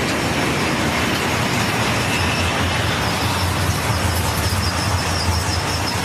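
Norfolk Southern freight train rolling past close by: a steady rumble of rail cars on the track, with a faint high wheel squeal above it.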